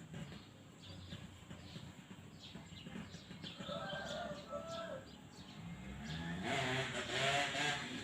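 A two-stroke Yamaha F1ZR motorcycle engine fitted with an AHM aftermarket exhaust starts revving in the last couple of seconds, the pitch stepping up and down. Before that there is a faint bird call about four seconds in.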